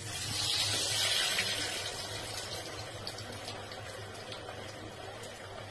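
Food frying in hot fat in a pan: a sudden burst of sizzling that peaks about a second in, then settles to a steady sizzle with scattered pops and crackles.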